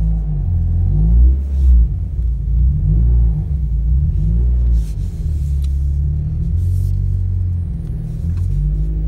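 Mazda MX-5 NC's four-cylinder engine running at low revs while the car is reversed, a deep rumble whose pitch shifts up and down a little as the throttle changes.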